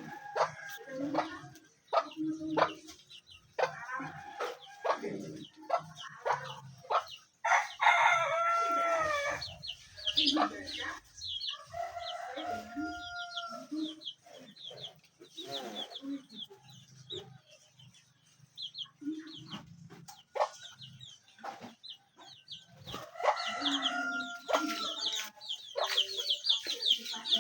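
Chickens clucking, with a long rooster crow about eight seconds in and rapid high chirps near the end.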